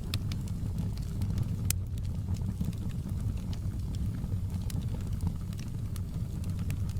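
Wood fire crackling in a fireplace: a steady low rumble of flames with scattered sharp pops and snaps, the loudest a little under two seconds in.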